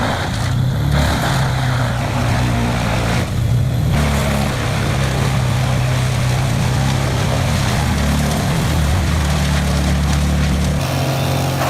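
Large industrial wood chipper running: a steady diesel engine drone with loud hiss over it. The deepest part of the engine note drops away about eleven seconds in.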